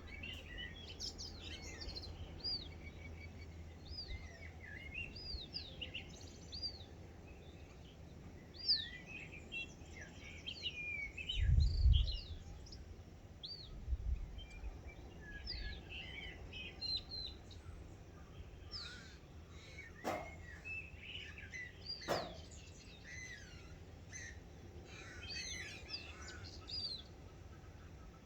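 Dawn chorus of many small birds, with short chirps and whistled notes overlapping throughout. A low rumble comes about twelve seconds in, and two sharp clicks come later.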